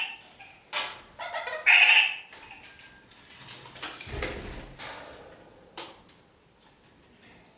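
Red-crowned kakariki parakeets chattering, with one loud call about two seconds in, among short clicks and knocks and a dull thump about four seconds in.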